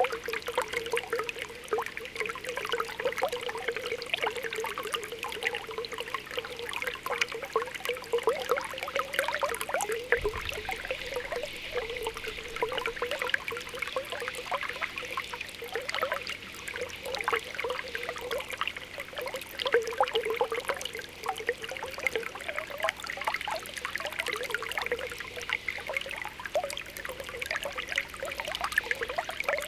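Spring water welling up through the ground, bubbling and popping in a steady stream of small irregular blips over a continuous trickle, with a brief low thump about ten seconds in.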